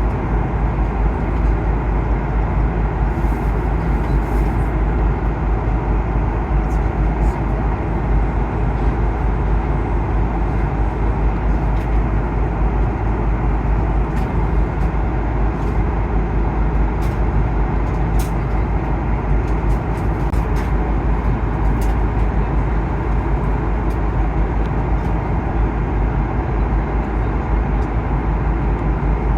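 Steady rumble and rush of an Airbus A330-200 cabin in flight: engine and airflow noise, with a few faint clicks scattered through it.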